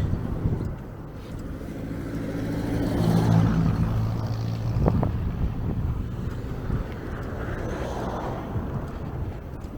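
A motor vehicle passing close by: its engine hum grows louder to a peak about three and a half seconds in, then fades, over a steady low rumble.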